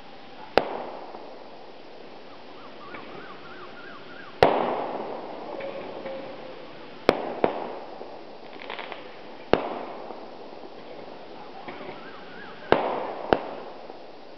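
Fireworks going off: seven sharp bangs, two of them in quick pairs, each with a long echoing tail, the loudest about four and a half seconds in, and faint crackling between the reports.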